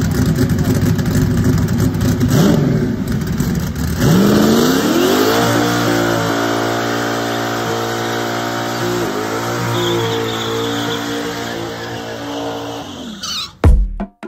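Donk car's engine during a burnout: rough running at first, then about four seconds in the revs rise sharply and are held high and steady for several seconds while the rear tyre spins, with a brief dip in the middle. Near the end it cuts off into a few sharp glitchy clicks.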